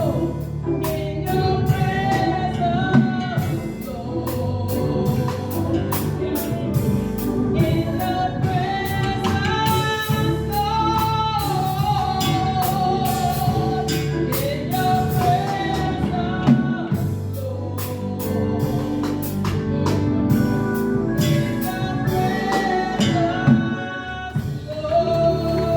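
Worship singers and band performing a contemporary Christian praise song: sung melody over sustained instrumental chords, with a steady beat of sharp strokes.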